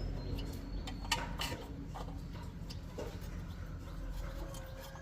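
A few sharp light clicks and knocks over a steady low hum, with faint thin whistle-like tones in the background.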